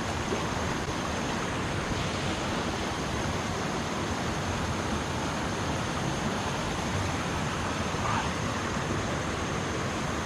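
Steady rush of river water pouring over and below a dam, an even wash of noise with no breaks.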